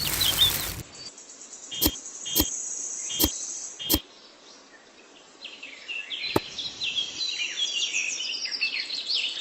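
Birds chirping: a dense run of short, quickly rising and falling chirps fills the second half. Earlier come four sharp clicks in quick succession, and a loud burst of broad noise right at the start.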